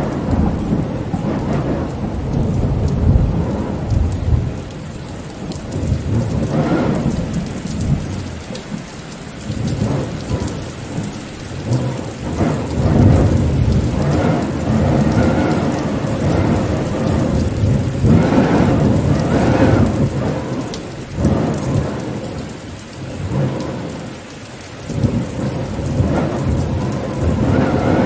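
Steady rain with deep, rolling rumbles of thunder or wind that swell and fade every few seconds.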